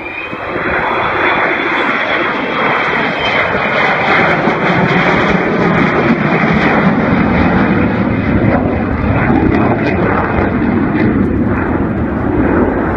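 Avro Vulcan XH558's four Rolls-Royce Olympus turbojets running loudly as the bomber flies past. The jet noise swells about a second in and then holds steady.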